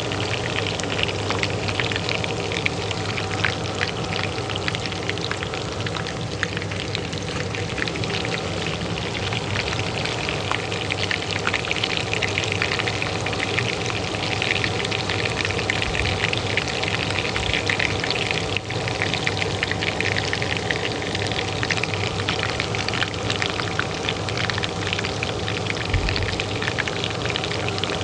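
Oil frying in a pan, a dense, even crackling sizzle, over the steady hum of a kitchen range hood fan.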